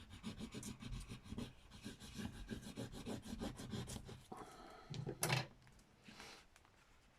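Rapid back-and-forth rubbing strokes of a rub-on transfer being burnished onto paper, for about four seconds, then stopping. A short, louder scuff comes about five seconds in.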